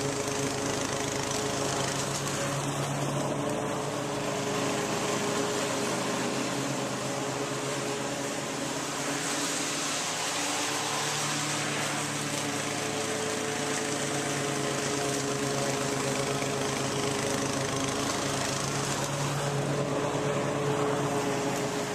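An engine or motor running steadily, its pitch shifting slightly a few times.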